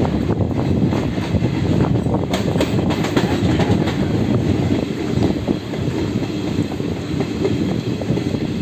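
Passenger train coach running along the track, heard from beside the coach: a steady loud rumble with the clickety-clack of wheels over rail joints, and a quick run of clicks about two to three seconds in.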